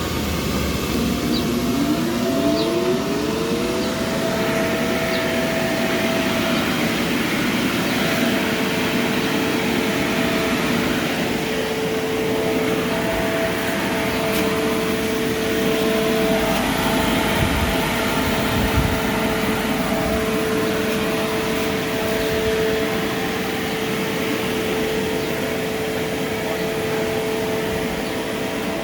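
Paint booth intake fan switched on: its motor whine rises in pitch as it spins up over the first few seconds, then runs steady with a constant hum and rushing air.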